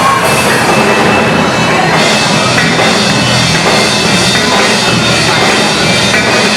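Loud rock music from a band with a drum kit, playing steadily with no break.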